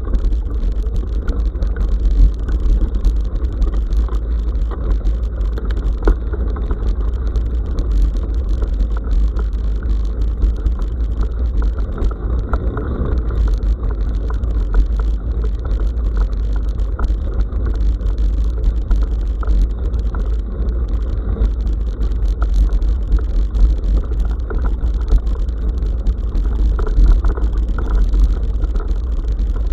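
Bicycle ridden along a dirt forest road, heard through an action camera: a heavy, steady low rumble of road vibration and air against the camera, with a continuous crackle of small clicks from the tyres and bike rattling over the rough surface.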